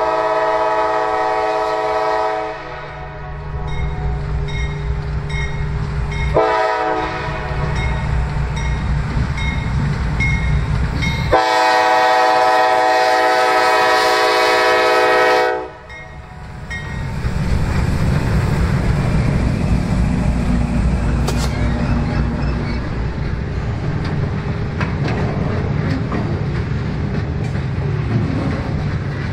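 Diesel freight locomotive horn sounding three blasts as the train approaches: a long one, a short one about six seconds in, and a long one ending about sixteen seconds in, over the low drone of the engine. Then the locomotive and the loaded ribbon-rail flatcars of a continuous welded rail train roll past with a steady rumble and clatter of wheels on rail.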